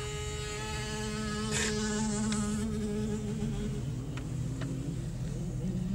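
A children's mini motocross bike's small engine buzzing at a high pitch, its note shifting slightly as the bike pulls away, heard from inside a car with a low rumble underneath.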